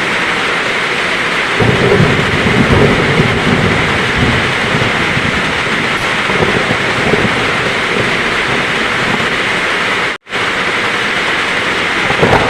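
Heavy rain pouring steadily, with a roll of thunder rumbling low from about a second and a half in for a few seconds. The sound cuts out completely for a split second about ten seconds in, then the rain resumes.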